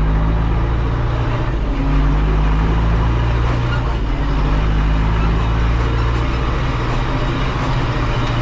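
Vehicle engine running steadily while driving on the road: a continuous low drone whose pitch shifts slightly now and then.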